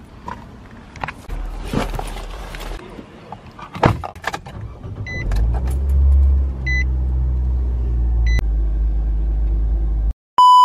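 Clicks and knocks of someone settling into a car. Then, about five seconds in, the car's engine starts and idles with a steady low hum while a dashboard chime sounds three times. A loud, steady electronic beep cuts in right at the end.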